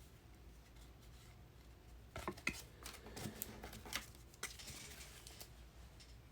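Trading cards being handled: faint scattered clicks, taps and soft rustles as cards are flipped through and set down, starting about two seconds in.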